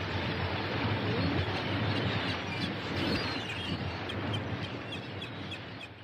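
Birds chirping over a steady rushing background, the whole sound fading out near the end.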